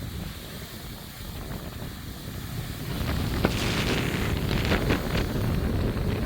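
Strong thunderstorm wind gusts buffeting the microphone with a rumbling roar. The wind strengthens into a harder gust about halfway through.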